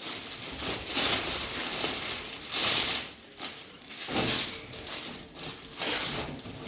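Rustling and crinkling handling noise in uneven bursts, with a few light clicks.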